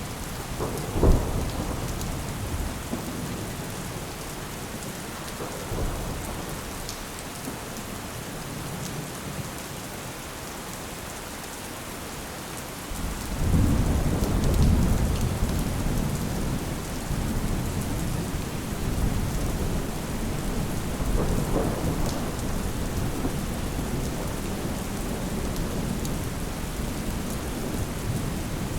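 Steady rain with thunder. A sharp crack comes about a second in, then a long low rumble of thunder swells about halfway through and keeps rolling.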